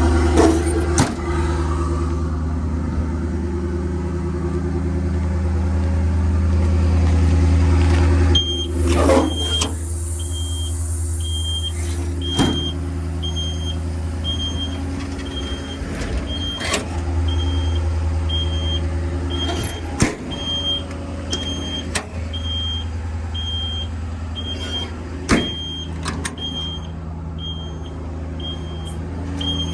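Ford 6.7L Powerstroke V8 turbo-diesel idling steadily. About eight seconds in, a high-pitched warning alarm starts beeping a little faster than once a second and keeps going, with occasional sharp knocks and clunks.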